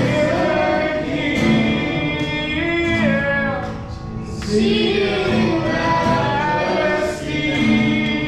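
Congregation of men singing a worship song together over instrumental accompaniment.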